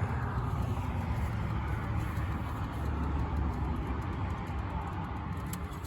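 Toyota Land Cruiser 80 running steadily at highway speed: a low engine and road rumble with no distinct squeal standing out.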